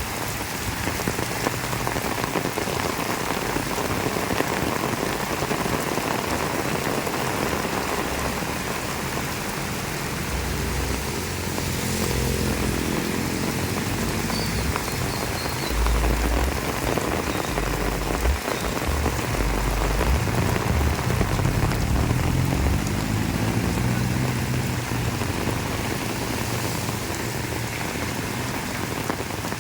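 Heavy rain falling steadily and hitting surfaces. A vehicle engine rumbles low as it passes, from about ten seconds in until about twenty-five seconds.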